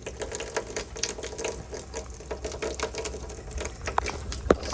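Faucet spitting and sputtering in rapid, irregular clicks as the water comes back on, with two sharper clicks near the end: air is being pushed out of the line after the supply was shut off.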